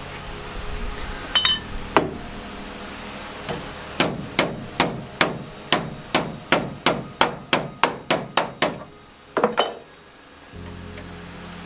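Hammer striking the sheet metal of a car's door post to beat it back into shape. A few scattered blows are followed by a quick, even run of about a dozen strikes, roughly three a second, then two last blows that ring metallically.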